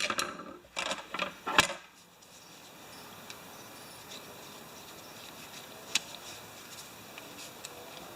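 Small clicks and knocks of an extension-cord plug and tools being handled during rewiring. There are a few sharp ones in the first two seconds, then a steady low hiss with one faint click about six seconds in.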